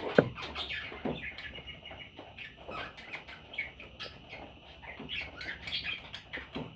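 Pet budgerigars chirping and chattering in quick, short calls. A sharp knock sounds just after the start.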